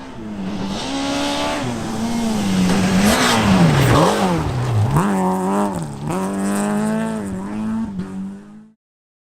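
Rally car engine revving hard through the gears, its pitch climbing and dropping again and again, with a sharp drop and recovery around the middle. It cuts off suddenly near the end.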